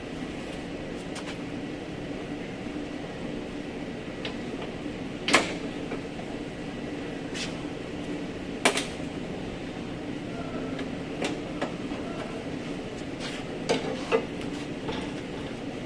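A few sharp metallic knocks and clanks from body-repair work on the fender and bumper, the two loudest about five and nine seconds in, with lighter taps near the end, over a steady workshop hum.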